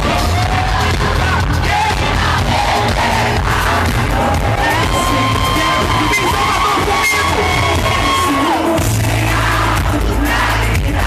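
Live band music at a concert, loud with a heavy bass, with a long held note through the middle and the crowd cheering over it.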